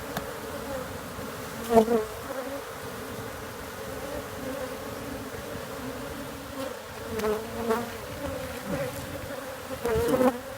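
A mass of honeybees buzzing in a steady drone around an opened hive during a cutout. It swells louder briefly a few times, about two seconds in, around seven to eight seconds, and near the end.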